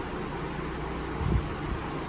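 Steady background hiss of a workshop with no tones, and one faint low knock about a second in, typical of small parts being handled on a bench.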